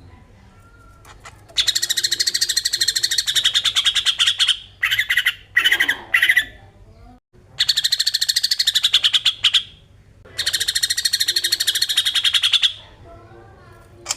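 Green leafbird (cucak ijo) singing its fast 'besetan' song: three long runs of rapid, high repeated notes, each lasting two to three seconds, with shorter broken phrases in between.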